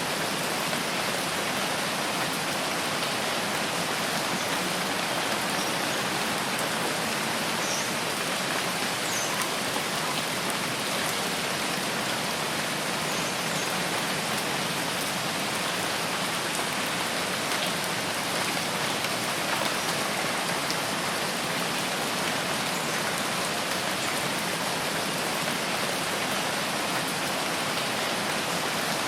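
Steady, even rainfall: a continuous dense hiss of rain that does not change in strength.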